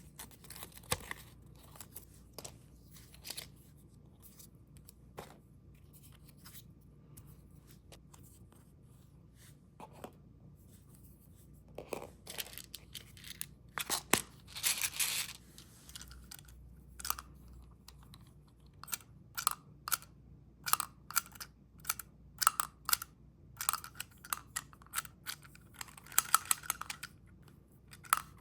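Candy packaging being handled and torn open: scattered taps and crinkles, a longer tearing sound about halfway through, then a quick run of sharp clicks and crackles over the last third.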